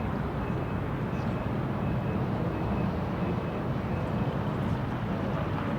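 City street ambience: a steady low rumble of traffic, with a faint high-pitched beep repeating about twice a second through most of it.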